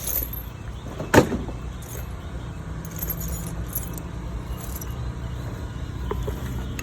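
A vehicle engine running with a steady low rumble, with one loud sharp bang about a second in and some faint jingling later on.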